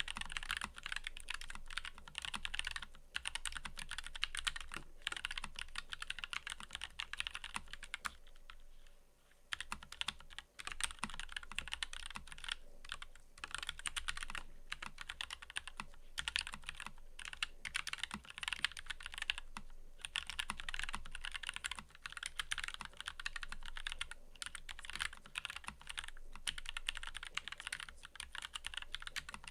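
Steady fast typing on a mechanical keyboard, a dense run of keystroke clicks with a brief pause about eight seconds in.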